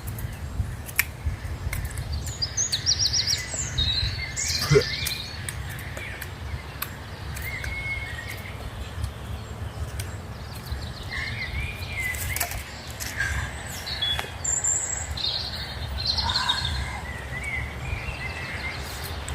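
Birds chirping and trilling in short repeated phrases, over a steady low rumble, with scattered small clicks.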